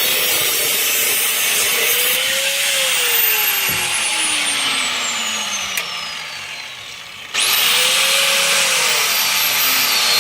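Angle grinder cutting the steel exhaust pipe under a car, its motor note dipping under load over a loud hiss of grinding. About three seconds in it is eased off and winds down for several seconds, then starts again sharply about seven seconds in and climbs back to full speed.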